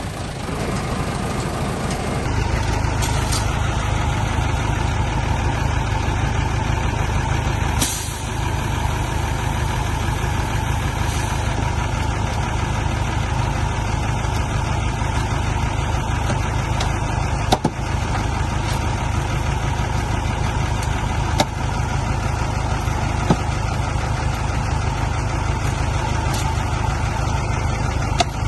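Heavy diesel engine running steadily with a deep rumble that comes up about two seconds in, with a brief hiss about eight seconds in and a few sharp clicks later on.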